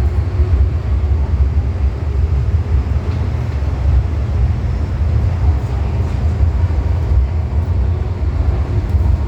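MTR M-Train electric multiple unit running at speed through a tunnel, heard from inside the car: a steady, heavy low rumble of wheels and running gear with a constant hum over it.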